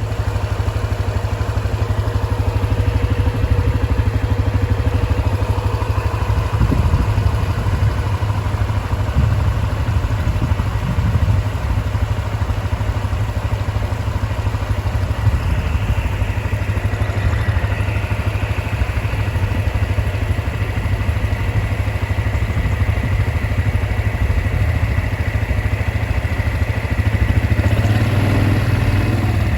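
A motor vehicle's engine running steadily, with a slight drift in pitch.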